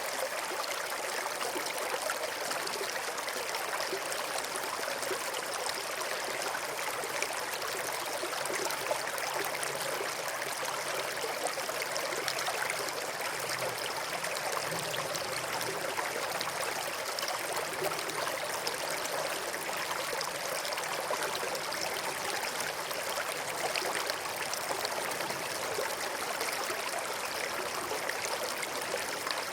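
A river stream flowing and babbling over rocks, a steady rushing of water with fine splashing and trickling.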